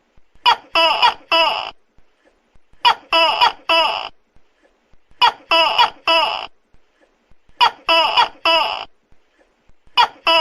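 Tokay gecko calling: loud 'to-kek' notes in bursts of three to four, each burst repeating about every two and a half seconds with short quiet gaps between.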